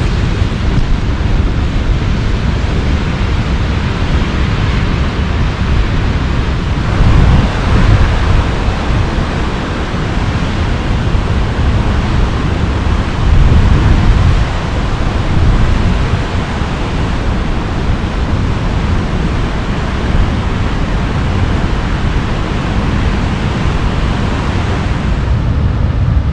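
Waterfall's rushing water: a loud, steady roar of noise that swells slightly a couple of times.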